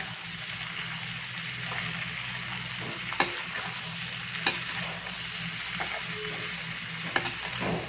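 Chilli chicken with spring onion greens sizzling in a pan as it is stirred, with a few sharp clicks of the spatula against the pan.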